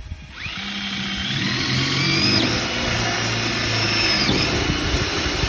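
Electric drill spinning up with a rising whine, then running under load as it drills a bolt hole through the metal of a tailgate hinge. Its whine sags in pitch twice as the bit bites.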